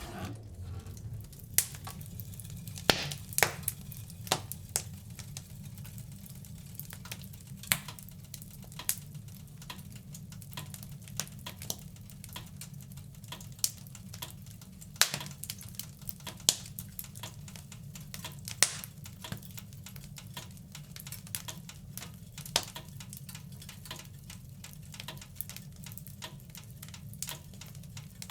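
Wood fire burning in a fireplace: a steady low rush of flames with irregular crackles and sharp pops, a few of them much louder than the rest.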